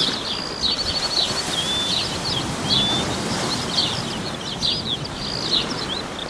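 Several small birds chirping and trilling over one another, rapid short calls and quick rising and falling notes, over a steady background hiss.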